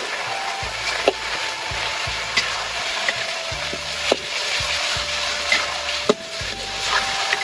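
Food sizzling as it fries in a pan while being stirred, with sharp utensil taps against the pan about once a second.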